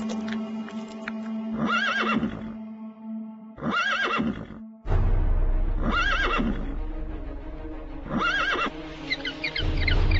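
A horse whinnying four times, about every two seconds, the same call each time, over steady background music. Quick high chirps start near the end.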